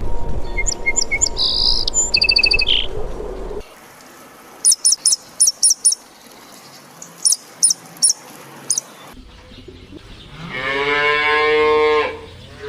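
Birds chirping over a noisy background for the first three and a half seconds. This is followed by a series of short, high bird chirps, then one long pitched call from a farm animal lasting about a second and a half, starting about ten seconds in.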